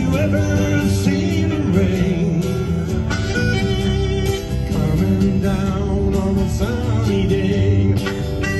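Country-rock instrumental break: a harmonica plays the lead with bending notes over strummed guitar and bass.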